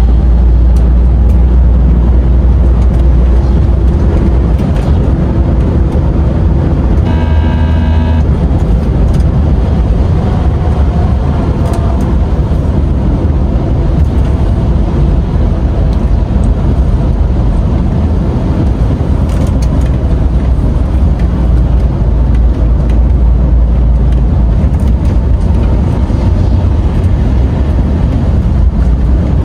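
DAF XF 510 truck driving, its diesel engine and road noise making a steady, loud low rumble. A short pitched tone sounds once, about seven seconds in.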